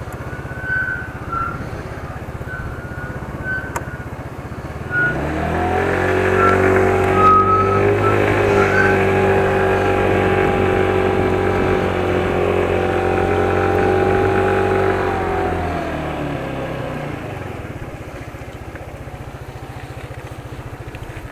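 Yamaha R1 Mini small motorcycle engine idling, then revved up about five seconds in and held at a raised, steady speed for about ten seconds before dropping back to idle; the engine is still cold.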